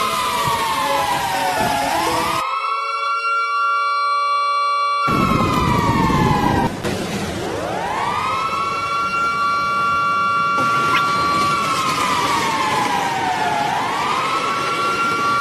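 A siren wailing slowly in two close tones: it holds a steady high pitch, glides down and climbs back, three times.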